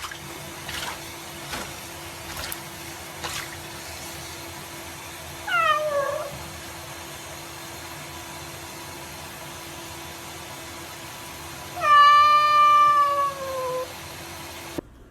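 A cat meowing twice: a short meow about five and a half seconds in, then a longer, louder one about twelve seconds in, each falling in pitch.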